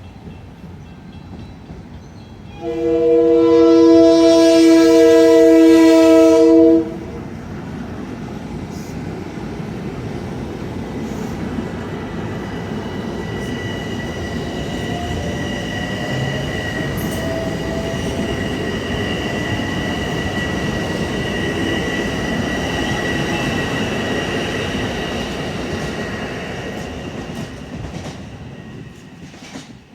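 Long Island Rail Road train sounding its horn in one loud blast of about four seconds, a few seconds in. The train then runs past with a rumble of wheels on rail and a steady high-pitched whine, which fade away near the end.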